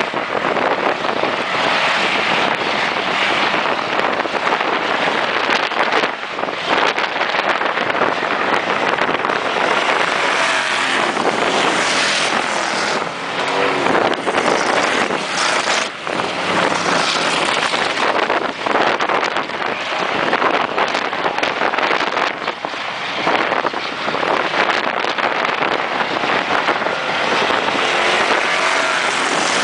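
Race cars' engines running at speed around the track, a loud steady roar that swells and dips slightly as the cars pass, mixed with wind noise on the microphone.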